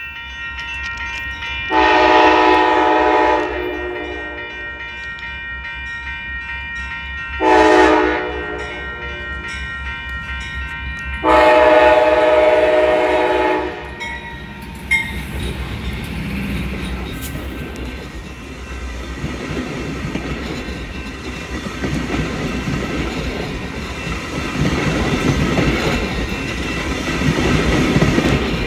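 Amtrak P42DC diesel locomotive's horn sounding three blasts (long, short, long) as it approaches a grade crossing, with the crossing bell ringing. The train then passes close by, its wheels rumbling and clacking over the rails.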